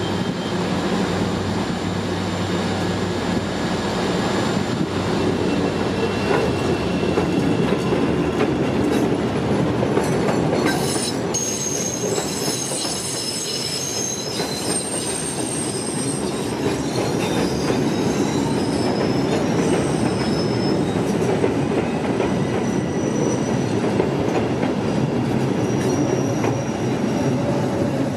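CTA 'L' rapid-transit train running past with steady wheel-on-rail rumble and clatter. Several high-pitched wheel squeals set in about eleven seconds in and come and go for most of the rest.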